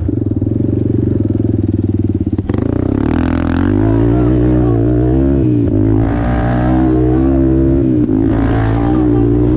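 Off-road vehicle engine running on a dirt track, its note rising and falling as the throttle is worked. There is a sharp click about two and a half seconds in, after which the engine pitch dips and then climbs again.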